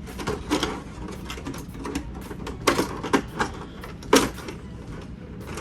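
Irregular clicks and knocks of hard plastic being handled, a few louder knocks around the middle: the plastic body shell of a Traxxas Slash 4x4 RC truck being set down over the chassis.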